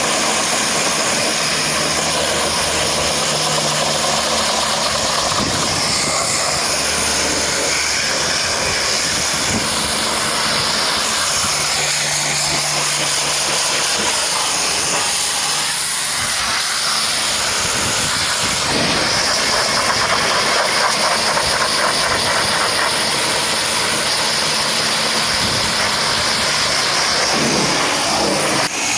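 High-pressure water jet spraying mud off a truck, a steady loud hiss, over a low steady machine hum.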